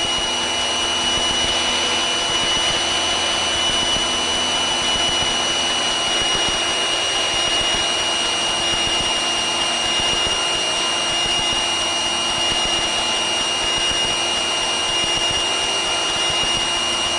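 Piper Cherokee 140's piston engine and propeller running steadily at power in flight, an even drone with a thin, steady high tone over it.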